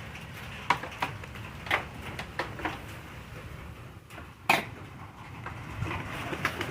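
Scattered clicks and knocks of things being handled indoors, about half a dozen, the loudest about four and a half seconds in, over a steady low background noise.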